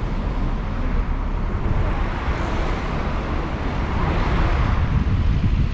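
Steady vehicle running noise with wind buffeting the microphone, a fluttering low rumble under a broad rushing sound.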